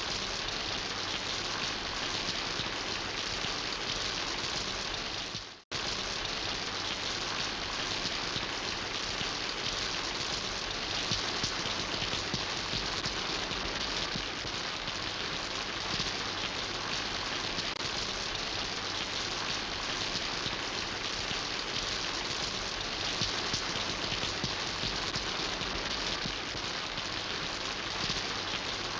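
Steady rain falling, a dense, even patter of drops. About five and a half seconds in it fades out quickly and cuts straight back in.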